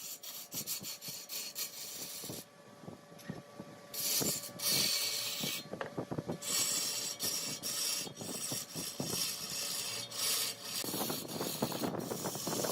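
Large wood lathe turning a wooden workpiece, with a tool scraping and cutting against the spinning wood in repeated passes and two brief pauses, and a heavier, lower scrape near the end.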